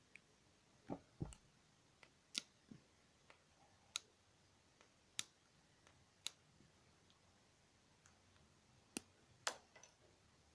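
Small plastic earphone bud being worked on by hand as its cover is pried off: about fifteen small, sharp clicks and taps at irregular intervals.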